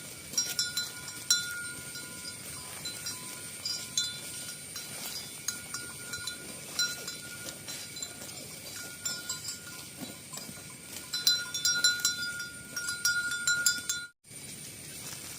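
Cattle bells clanking and jingling irregularly as a herd of cows walks, with a ringing tone coming and going. The bells are busiest a little before the end, then the sound cuts off abruptly.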